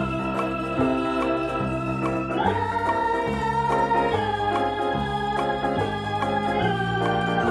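Background music: sustained organ-like keyboard chords changing every second or so over a repeating bass line.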